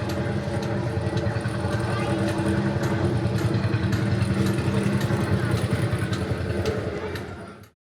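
Tractor ride vehicle running along its course, a steady engine-like hum with light regular clicks, which cuts off suddenly near the end.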